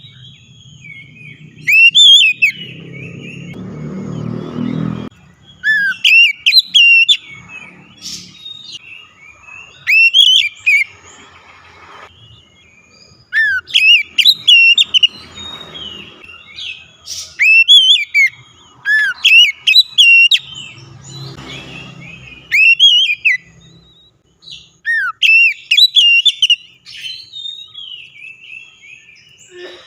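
Oriental magpie-robin singing: loud, sweet whistled phrases with quick upward and downward slides, delivered in repeated bursts. A low rustling noise comes in a few times between the phrases.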